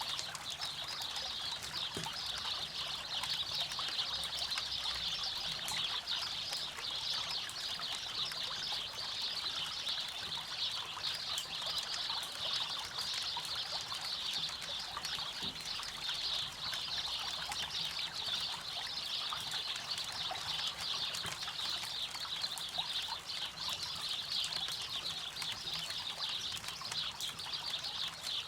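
Campfire crackling with many small sharp snaps over a steady hiss of flowing river water.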